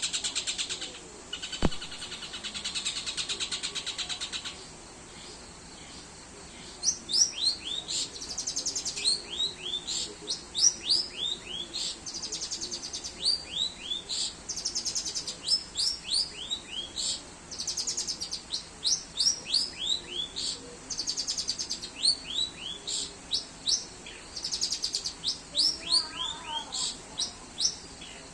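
A songbird singing: a fast, buzzy high trill for the first few seconds, then repeated bursts of short, high notes that each sweep downward. A single sharp click sounds about two seconds in.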